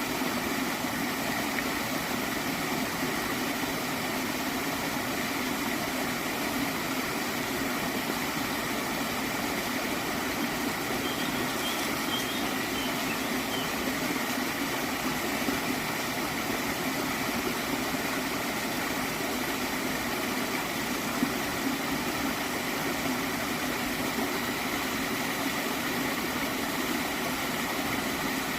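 Small stream of water flowing steadily and gurgling, without a break.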